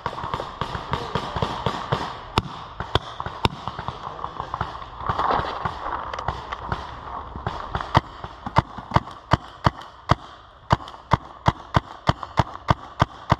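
Paintball guns firing a long string of sharp pops, uneven at first, then steady at about three shots a second in the second half.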